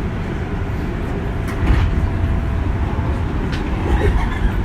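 Running sound heard inside a JR West 201 series chopper-controlled electric train: a steady low rumble of wheels and traction gear. A few sharp clicks sound over it.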